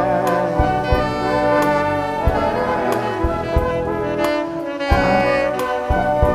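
Live band music, horns holding sustained chords over sharp percussion hits.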